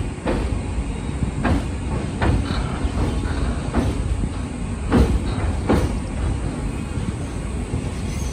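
MEMU electric train running at speed, heard from its open doorway: a steady rumble of wheels on rail with about six sharp clacks at uneven intervals as the wheels strike the track.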